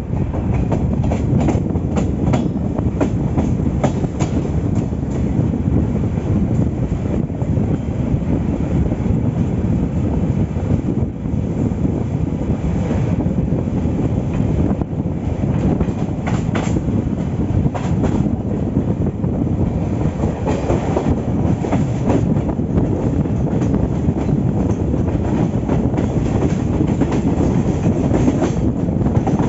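Passenger train running along the track, a steady heavy rumble with the clickety-clack of wheels over rail joints.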